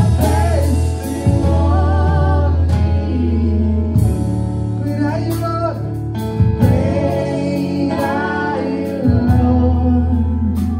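Live gospel worship music: singers holding long, wavering sung notes over a band with a steady low bass.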